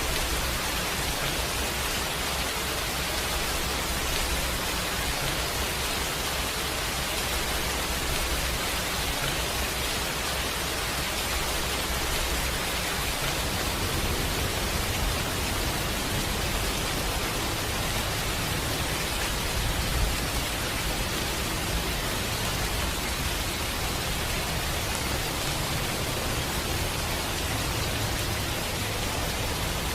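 Steady rain falling, an even hiss with a low rumble beneath it, and one slightly louder pop about two-thirds of the way through.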